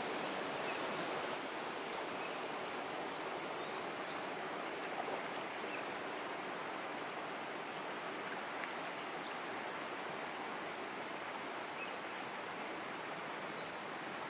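Steady rush of flowing river water with short, high bird chirps over it: a quick cluster of them in the first few seconds, then a few scattered ones.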